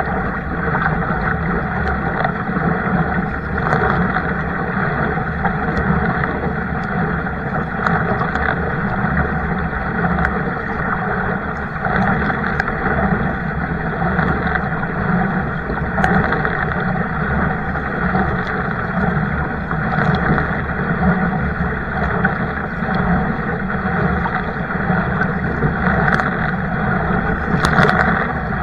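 Kayak on the water: a steady rushing of water and wind noise on the microphone, with a few light knocks.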